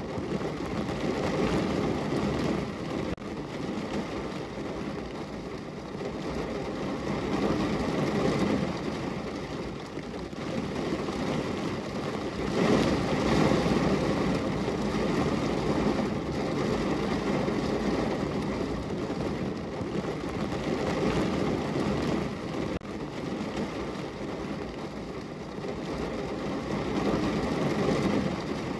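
Steady rain on a window: a dense, even rushing noise weighted toward the low end. It swells and eases every few seconds, loudest about thirteen seconds in.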